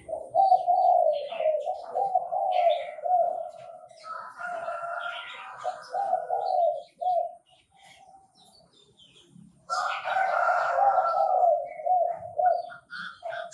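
Chinese francolin (đa đa) calling: two bouts of loud, repeated calls separated by a pause of about three seconds, with thin high chirps scattered among them.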